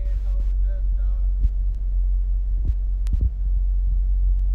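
A vehicle engine idling with a steady low throb, a few light clicks over it.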